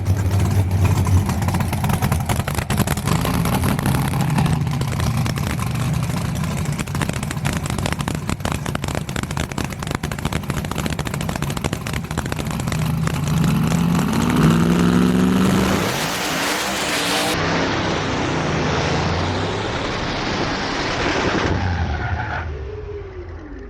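Race car engine running with a choppy, pulsing rumble, then revving up with rising pitch about 13 seconds in as the car launches, followed by a loud rushing noise as it pulls away, fading near the end.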